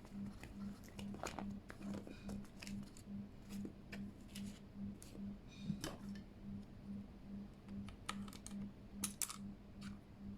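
Irregular small plastic clicks and taps of keycaps being handled and pressed onto a Keychron K8 mechanical keyboard, over a faint low hum that pulses about two or three times a second.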